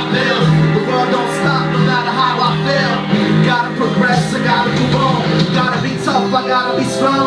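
Live band music with a voice singing over held bass notes.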